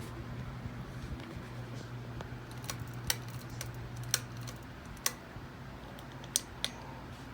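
Ceiling fan motor running with a steady low hum that weakens about halfway, while about seven sharp, irregular clicks and ticks sound over it.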